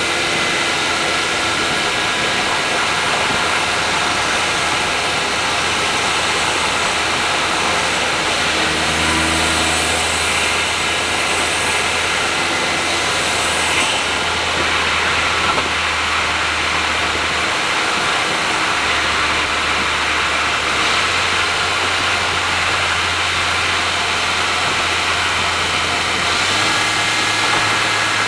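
Honda S660's turbocharged three-cylinder with an HKS exhaust cruising on an expressway: a steady engine drone under road and tyre noise, the drone shifting in pitch several times as speed changes.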